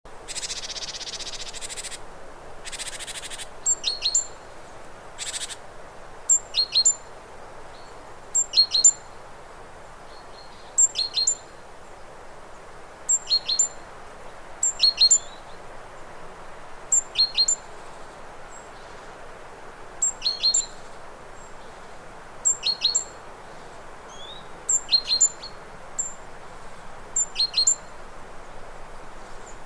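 Hummingbird chirping: short, sharp, high chirps in pairs or threes, repeated about every two seconds over a steady background hiss. A few brief bursts of hiss come in the first few seconds.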